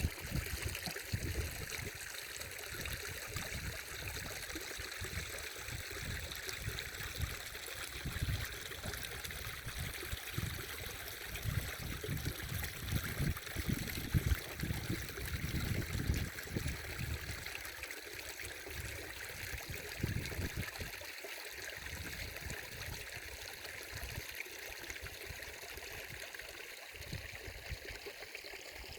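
Stream water flowing and trickling in a steady hiss. Underneath it runs an uneven low rumble that eases off after about the middle.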